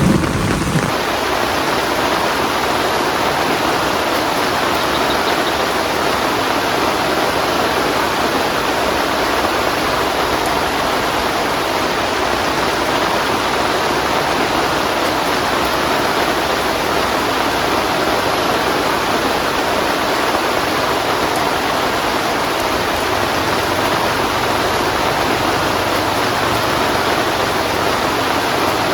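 Heavy rain falling steadily with a dense, even hiss. The tail of a thunder rumble fades out in the first second.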